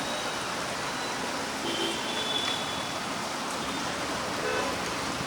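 Steady, even rush of rain and traffic noise on a flooded city street, with a few faint, brief tones over it.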